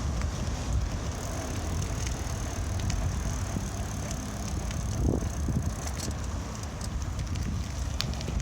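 Riding noise from a bicycle in motion: a steady low rumble of wind on the microphone and tyres on the road, with scattered light clicks and rattles and a single knock about five seconds in.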